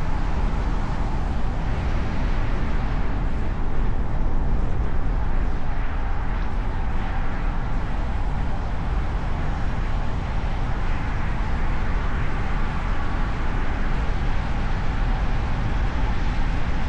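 A car driving on city streets, heard from a hood-mounted camera: steady road and traffic noise with a strong low rumble.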